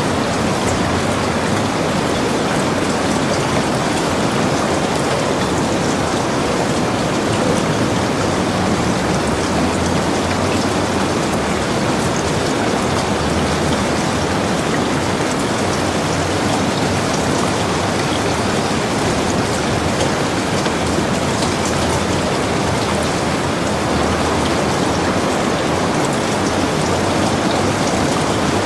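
Heavy rain falling in a steady, dense hiss, with faint scattered drop ticks through it.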